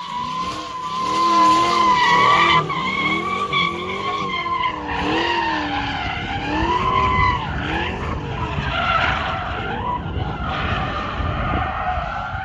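LS3 6.2-litre V8 in a Fox-body Mustang revving up and down over and over while the rear tyres squeal through donuts. The engine pitch rises and falls about once a second over a wavering, high tyre squeal.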